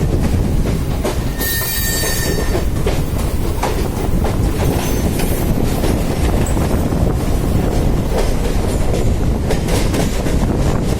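Mumbai suburban EMU local train running, with a steady rumble and wheels clicking over rail joints and points. A short high wheel squeal comes about one and a half seconds in.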